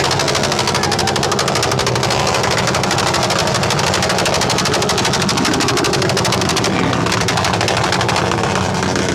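Loud modified vehicle exhaust held at high revs, a rapid, even rattle of firing pulses that runs on without a break.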